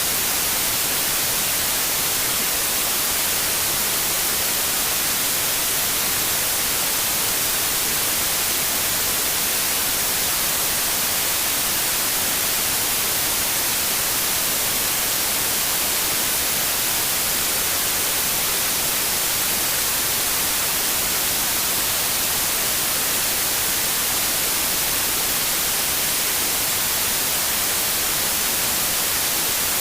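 Steady white noise: an even hiss with no changes, strongest in the high frequencies.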